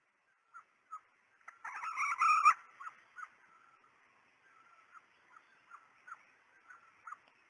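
Female red junglefowl (hen) calling: short clucks, with a louder, harsher call about two seconds in, then a run of soft clucks roughly twice a second. This is the hen call used as a lure for wild junglefowl.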